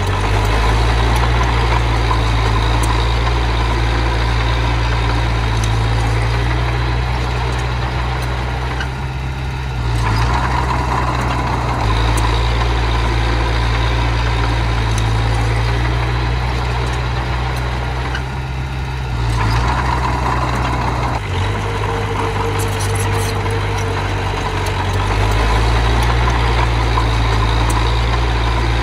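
Engine of heavy earthmoving machinery running steadily, its note shifting under changing load, with two brief dips in level.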